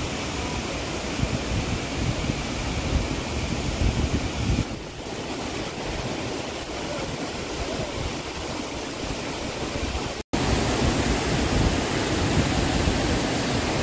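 Steady rushing outdoor noise of water, with wind buffeting the microphone. The sound cuts out for a split second about ten seconds in, then carries on.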